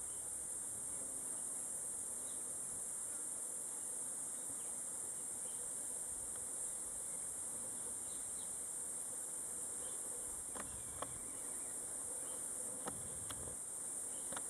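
Steady high-pitched insect chorus, with a few short sharp snaps late on.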